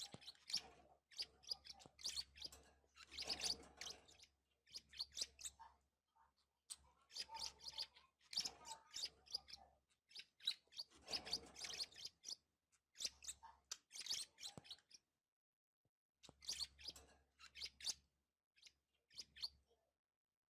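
Budgerigars chirping and chattering in short bursts separated by brief pauses.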